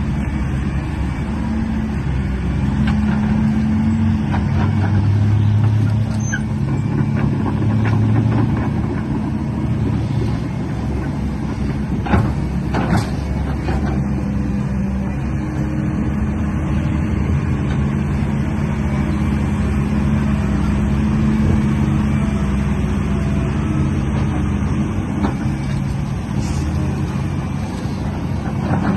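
Engine of an RC dump truck running steadily, its pitch rising and falling a little, with a couple of sharp clicks about twelve seconds in.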